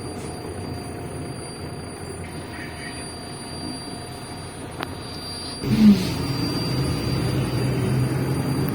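Inside a MAZ-105 articulated city bus under way: steady engine and drivetrain hum with a thin high whine. About five and a half seconds in, the engine note suddenly jumps much louder and stays up.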